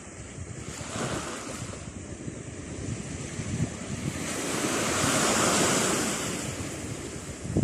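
Atlantic surf: waves breaking and washing on the shore, one wave swelling up loudest about five seconds in and then fading, with wind buffeting the microphone.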